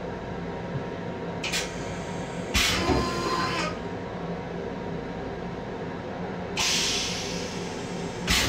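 Long Island Rail Road M7 electric railcar in motion, heard from inside its small restroom. A steady running hum is broken by sudden knocks and rattles, about one and a half seconds in, around three seconds in and near the end. A hiss lasting about a second comes in at about seven seconds in.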